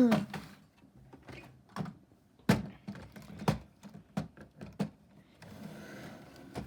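Scattered clicks and light knocks of LEGO plastic parts being handled, about a dozen in all, the sharpest right at the start and about two and a half and three and a half seconds in.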